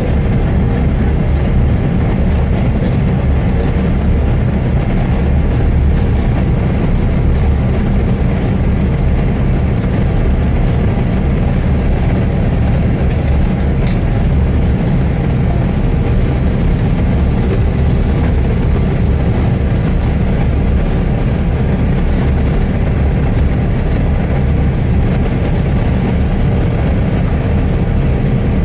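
Cabin noise aboard a Bombardier CRJ200 airliner: a steady, loud rumble of airflow and engines, with a faint steady high whine over it.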